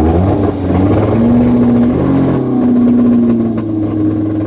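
1.6-litre car engine revved and held at about 6,000 rpm for a static trackside noise test. Its note holds steady, dips briefly about halfway, then settles a little higher near the end. The engine has a known misfire.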